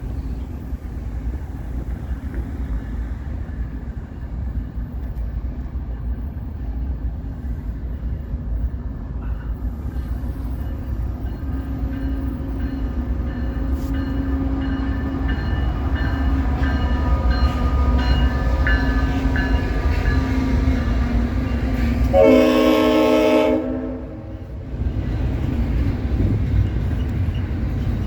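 Freight train approaching, its low rumble building steadily. About 22 seconds in, the leading diesel locomotive gives one short blast of about a second and a half on its Leslie RS5T five-chime horn, the loudest sound. The train keeps rumbling past afterwards.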